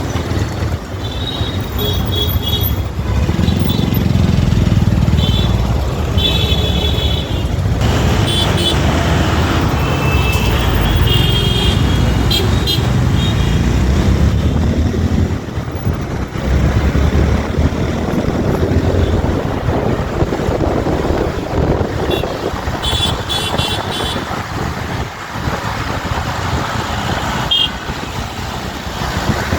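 Road traffic running steadily with a dense engine and road rumble, while vehicle horns toot in short bursts again and again.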